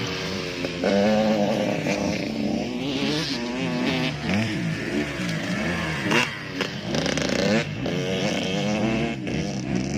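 Several motocross bike engines revving, their pitch climbing and dropping again and again, with the tones of more than one bike overlapping.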